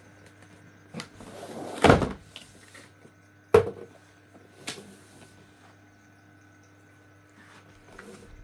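Unboxing handling sounds from a robot vacuum's cardboard box and packaging. A short scrape builds to a loud knock just before two seconds in, followed by a sharp knock about three and a half seconds in and a lighter one about a second later.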